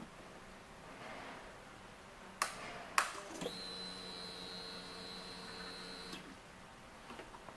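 Two clicks, then the fuel pump of a fuel-injected 2006 Suzuki GSX-R600 whirs steadily for about three seconds and stops: the pump priming as the ignition is switched on before starting.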